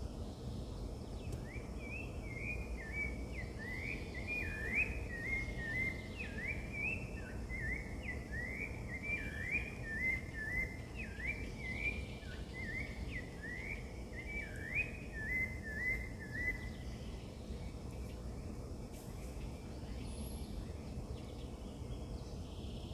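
A bird calling a long, quick run of short, rising chirped notes for about fifteen seconds, stopping a few seconds before the end, over a steady low rumble of outdoor background noise.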